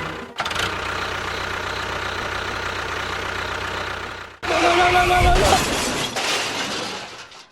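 Small motor of a DIY model tractor running steadily in short spliced clips. About halfway through, a louder clip carries a steady whining tone.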